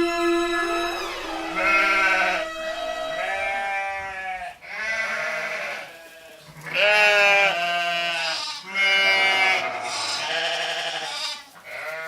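A series of about six drawn-out animal calls, each bending in pitch, coming one after another every second or two, over a low steady hum.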